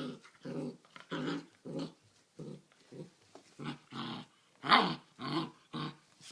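Great Dane puppies play-growling as they wrestle: a run of short, low growls about two a second, with one louder, sharper growl about three-quarters of the way through.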